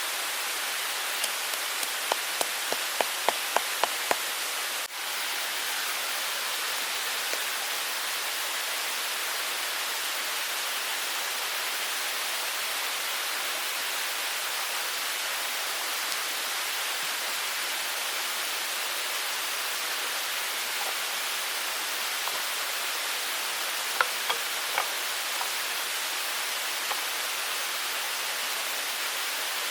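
Steady rushing of a small mountain stream, with a quick run of about ten sharp clicks a couple of seconds in and a few more near the end.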